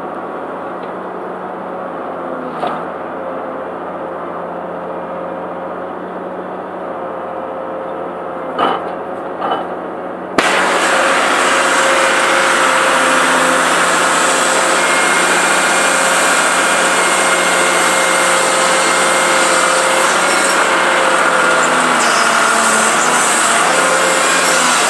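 Prentice log loader's engine running steadily as logs are loaded, with a couple of brief knocks in the first ten seconds. About ten seconds in the sound suddenly becomes louder and fuller and stays so.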